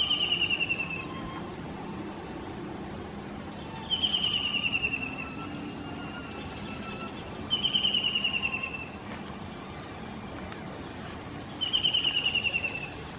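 Brown-breasted kingfisher calling: a loud, falling trill of rapid notes about a second long, given four times roughly every four seconds.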